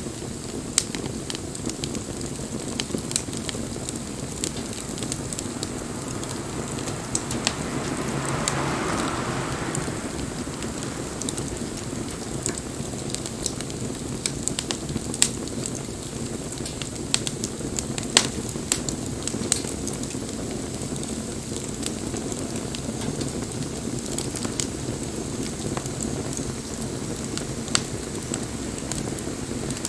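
Wood bonfire burning: a steady low rush of flames with scattered sharp pops and crackles. A brief louder swell of hissing comes about eight to ten seconds in.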